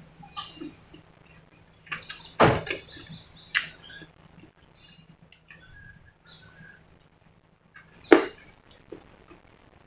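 Close-up eating sounds: crunchy fried chicken drumette being bitten and chewed, with two loud crunches, about two and a half and eight seconds in, and small wet clicks and crackles between.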